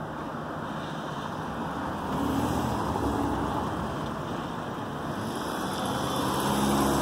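Steady engine rumble under a rushing noise, swelling about two seconds in and again near the end.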